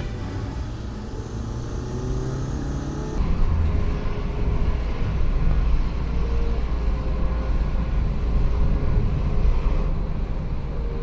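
Car driving on the road: a steady low engine and road-noise rumble, with an abrupt change in the sound about three seconds in.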